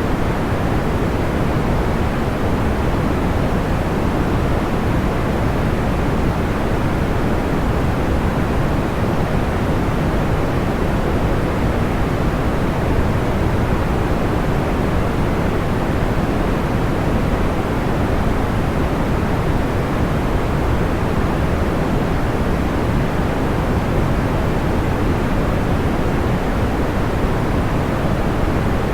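Steady, deep white noise: an even, soft hiss weighted toward the low end, with no breaks, pops or rhythm.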